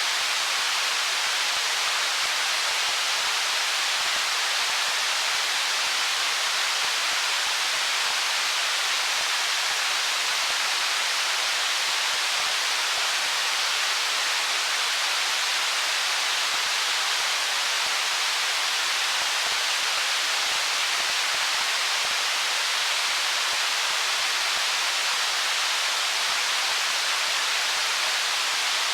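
Stream water running over stones: a steady, unbroken rush, mostly high hiss with little low rumble.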